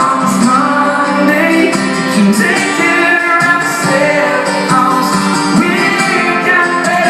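Live country-pop band music in a stretch without lead vocals, with guitar lines over the band.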